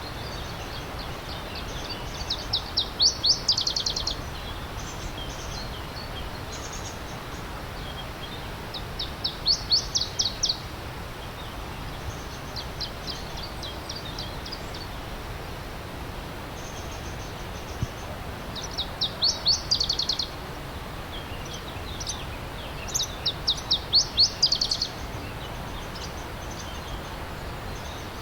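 A songbird singing four loud phrases, each a quick run of sharp repeated notes that grows louder before stopping, with fainter bird calls between. Under it runs the steady rush of a stream.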